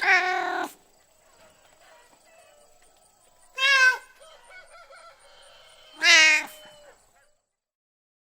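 Domestic cat meowing three times, short calls a few seconds apart.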